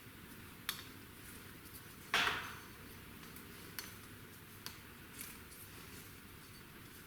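Light clicks and clinks from hand work on a metal band saw's blade as it is unwrapped and fitted, with one louder scrape about two seconds in.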